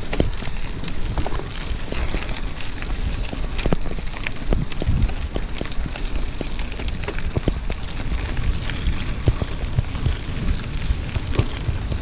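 Bicycle riding over a rough track: many small irregular crackles and clicks from the tyres and bike over a steady low rumble of wind on the microphone.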